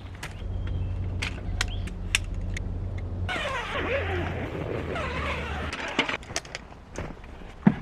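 Creaking and squeaking from about three seconds in to about six, with scattered clicks and knocks throughout, over a steady low hum.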